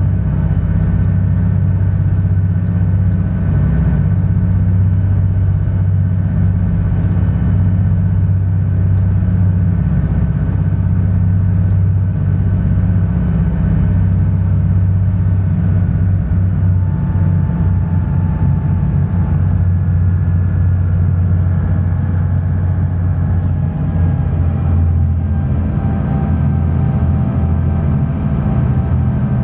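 Sightseeing cruise boat's engine running steadily, heard on board as a continuous low hum.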